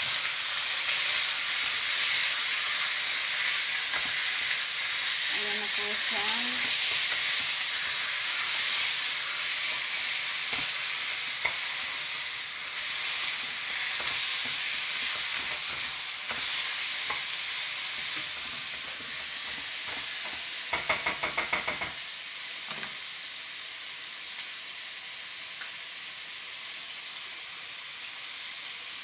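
Chicken pieces sizzling in hot oil with garlic and onion in a wok, with the knocks of tongs as they are stirred. The sizzle slowly eases as the meat cools the pan, and a quick rattle of clicks comes about two-thirds of the way through.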